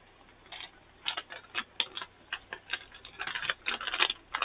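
Plastic snack bag of Flipz Stuff'd pretzel bites crinkling and crackling as it is handled and pulled open. The crackles start about half a second in as scattered short clicks and come thicker near the end.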